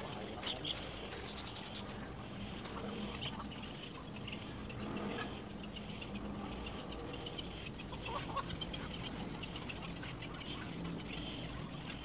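Birds calling around a little egret nest: many short ticking clicks and brief calls scattered throughout.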